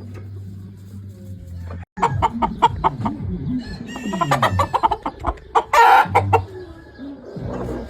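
Gamefowl chickens clucking, with a rooster crowing loudly about six seconds in. A low steady hum plays for the first two seconds, up to an abrupt cut.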